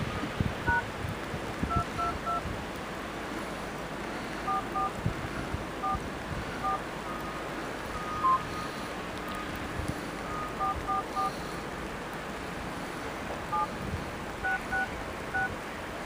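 Telephone keypad tones: about sixteen short two-tone beeps, some single and some in quick runs of two or three, spaced irregularly, as numbers are keyed in. Underneath runs a steady hiss of wind noise on the microphone with occasional low thumps.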